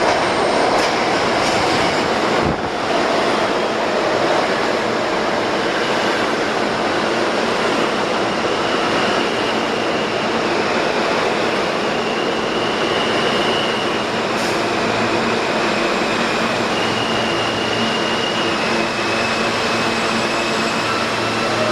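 New York City subway train of R160B cars pulling into a station: a steady, loud rumble of steel wheels on rail. Thin high squeals come and go through the middle as the train slows.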